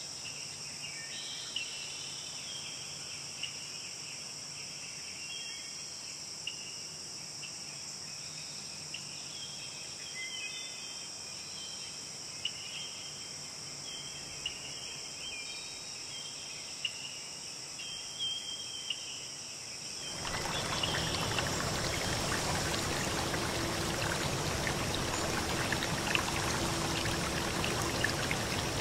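Steady high-pitched insect chorus with scattered short chirps. About two-thirds of the way through it cuts suddenly to the louder, even rush of flowing stream water.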